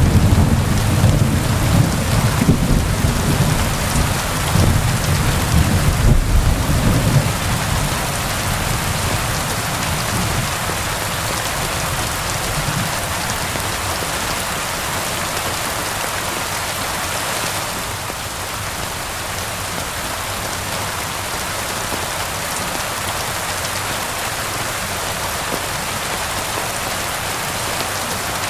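Steady rain falling, an even hiss throughout, with a low rolling thunder rumble for about the first seven seconds that dies away.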